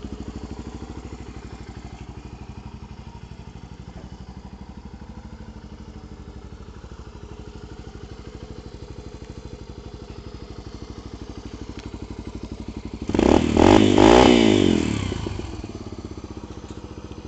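Yamaha TT-R125 dirt bike's single-cylinder four-stroke engine idling steadily through a Pro Circuit 304 stainless exhaust, revved hard once about thirteen seconds in, then dropping back to idle.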